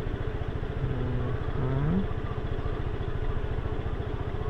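Motorbike engine running steadily, its firing a fast low pulse. A short pitched sound rises and ends about two seconds in.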